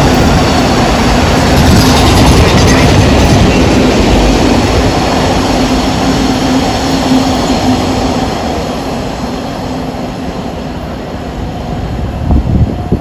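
Container wagons of a freight train running past on the rails, a loud dense rumble with a steady low hum under it. It fades as the tail of the train passes, with a couple of louder knocks near the end.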